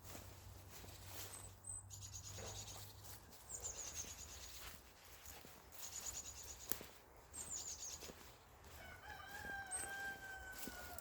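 A rooster crowing once near the end, one long drawn-out call. Small songbirds give short, fast, high trills several times throughout.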